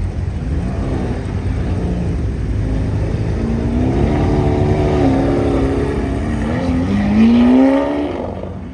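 A car engine revving and accelerating. Its pitch rises and falls several times and climbs highest and loudest about seven seconds in, then fades as the car pulls away.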